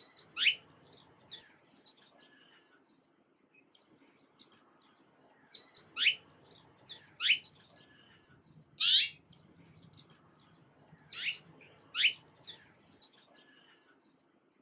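Birds chirping: about six loud, sharp calls that each sweep steeply down in pitch, spaced irregularly, over fainter scattered high twittering.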